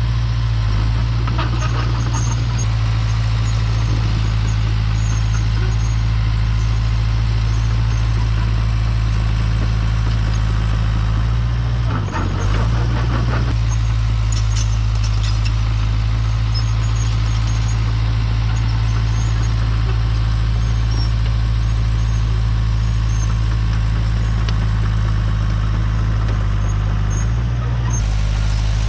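Engine of a heavy earthmoving machine running steadily at a constant speed, with a brief change in its note about twelve seconds in.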